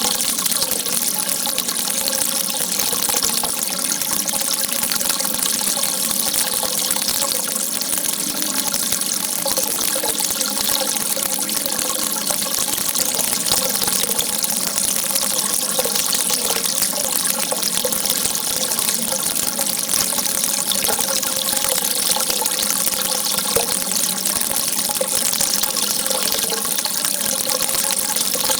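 Water gushing steadily in a strong, unbroken flow, with a faint wavering gurgle running through it.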